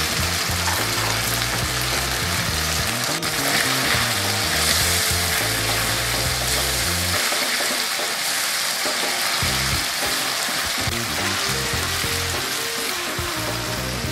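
Pork strips frying in bubbling hot oil in a wok: a steady, dense sizzle, with background music underneath.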